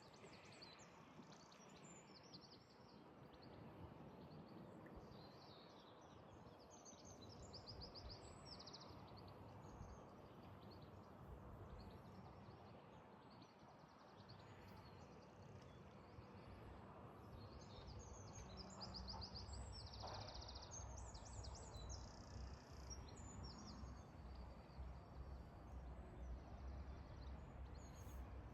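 Quiet lakeside ambience with small birds singing and chirping at intervals throughout, over a faint low rumble that grows a little stronger in the second half.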